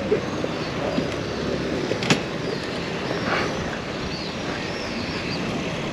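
Steady street traffic noise of vehicles around a stopped scene, with one sharp knock about two seconds in.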